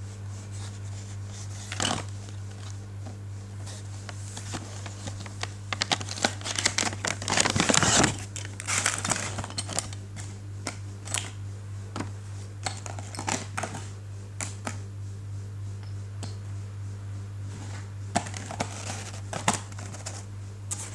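Model-airplane packaging being handled: crinkling plastic and cardboard with scattered clicks and taps, busiest about six to eight seconds in, over a steady low hum.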